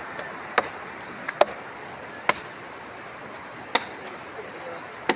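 Workers' hand tools striking rock as landslide debris is cleared: about six sharp knocks at irregular intervals, over a steady background hiss.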